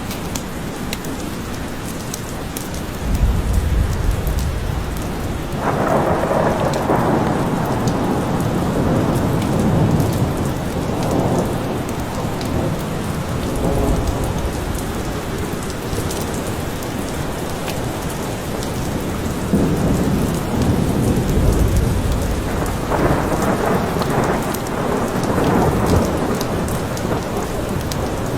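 Steady heavy rain with rolling thunder. Low rumbles swell about three seconds in, around thirteen seconds and again around twenty seconds.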